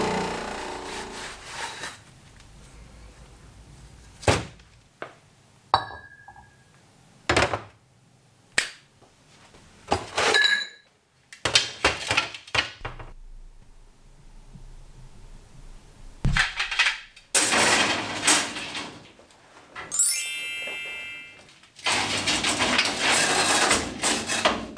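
Hand work on metal parts in a workshop: a string of separate knocks and clinks spread through the stretch, with several longer noisy bursts about seven, seventeen and twenty-two seconds in, and a brief squeak with a pitched ring about twenty seconds in.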